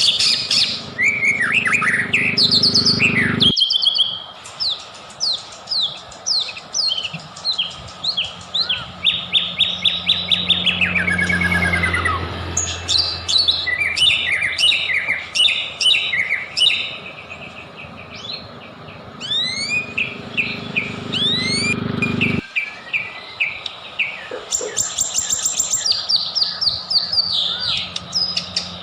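White-rumped shama (murai batu) in full song: a rapid, varied stream of chirps, trills and rising whistles, with a low hum underneath. The song breaks off abruptly twice, near 4 s and 22 s in.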